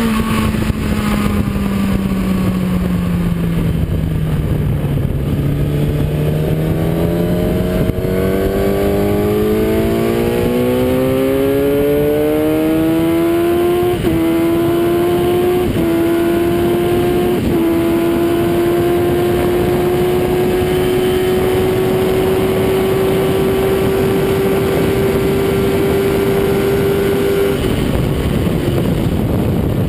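Onboard sound of a Kawasaki ZX-10R's inline-four engine at full throttle on a racetrack, with heavy wind rush. The engine note falls over the first few seconds, then climbs, and dips briefly three times as the rider shifts up. It then holds high in top gear, rising slowly, until the throttle is shut off near the end.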